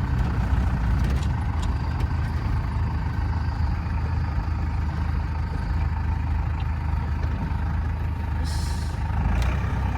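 Motor vehicle running with a steady low engine and road rumble; a short hiss comes near the end.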